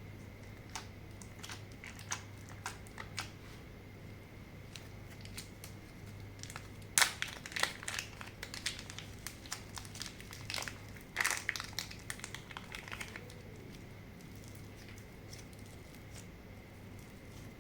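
Slime being worked by hand, giving scattered sticky clicks and crackles. They are sparse at first, busiest in the middle, and the loudest pop comes about seven seconds in.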